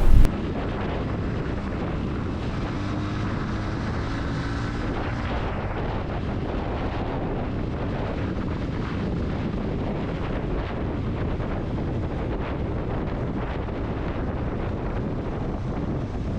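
Steady wind rush on the microphone mixed with the running noise of a motorcycle at highway speed.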